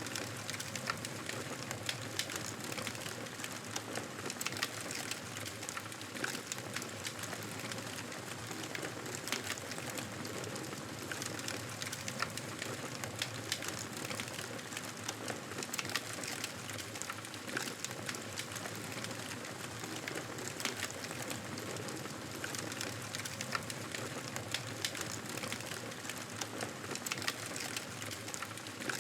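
Wood fire in a fireplace crackling steadily: a constant hiss with many small, irregular pops and snaps.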